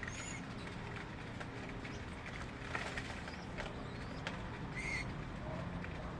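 Birds calling: a few short, high chirps, one near the start and a couple about five seconds in, over a steady low background noise.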